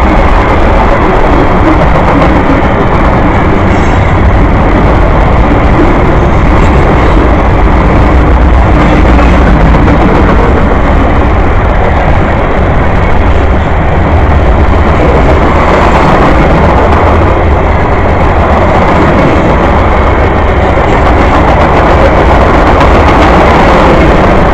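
Freight train rolling past close by: a loud, steady rumble and rush of wheels on rail, with wind on the microphone.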